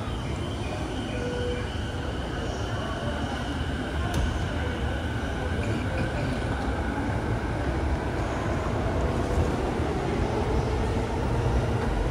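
JR Yamanote Line electric commuter train running, a steady rumble with a faint whine, growing slightly louder from about four seconds in.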